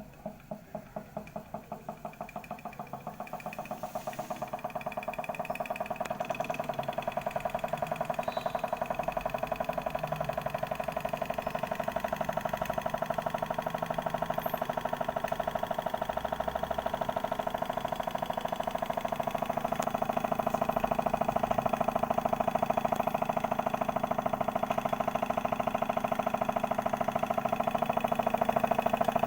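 A small Stirling engine running with a rhythmic mechanical beat that starts slow and quickens over the first few seconds as it spins up. It then runs on steadily, growing a little louder later on.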